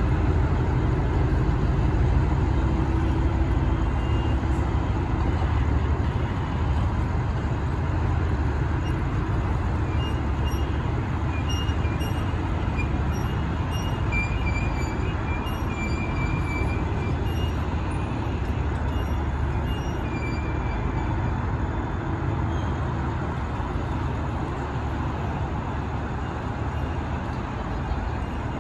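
A train running at the station: a steady low rumble that slowly eases off, with faint short high-pitched squeals in the middle.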